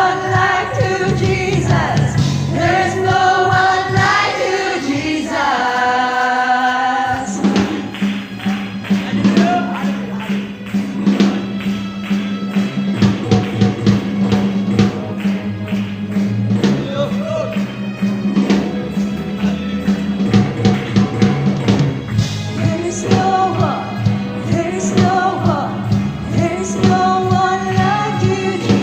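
Youth choir singing a gospel song with instrumental accompaniment. The voices drop out for an instrumental passage about seven seconds in, with a held low note under a steady beat, and come back in near the end.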